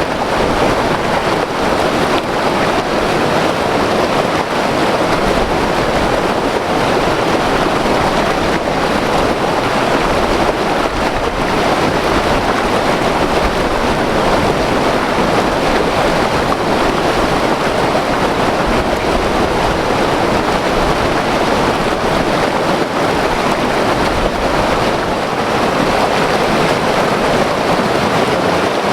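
Loud, steady rush of a white water river running over rocks.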